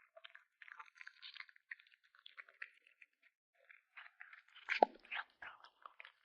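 A kitten chewing and crunching food in quick, irregular bites, with a louder crunch a little under five seconds in.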